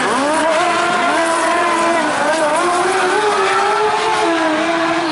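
Speedway sidecar engines running hard at racing speed, their pitch rising and falling as the outfits are throttled through the turns.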